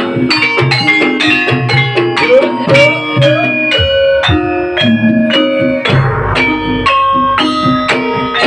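Live band music: drums with quick rhythmic struck and plucked notes, playing on steadily.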